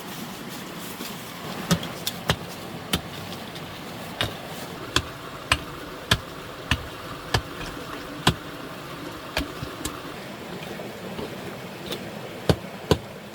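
A hand tool striking sharply again and again, roughly one blow every half-second to second, in runs broken by short pauses, over a steady hiss.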